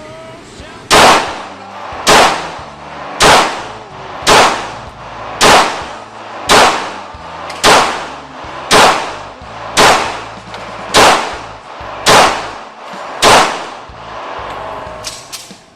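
Gunshots fired at a steady pace: twelve sharp shots about a second apart, each with a short fading echo.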